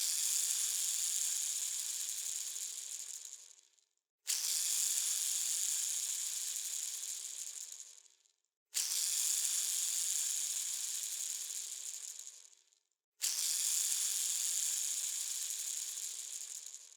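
A bearing spinning with a high, rattly whir. It is set spinning four times; each spin starts suddenly and slows and fades away over about four seconds.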